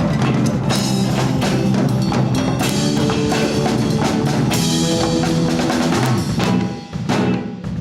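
Latin fusion band playing live: drum kit and hand percussion such as wood block over sustained bass and keyboard notes. The playing thins out and drops in level near the end.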